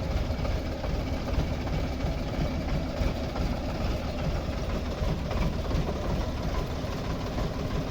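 Tractor diesel engine running steadily at an even speed, with no rise or fall in pitch.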